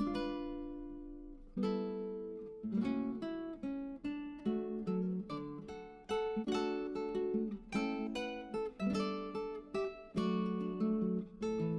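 Background music of plucked and strummed acoustic guitar, with chords that ring and fade between strokes.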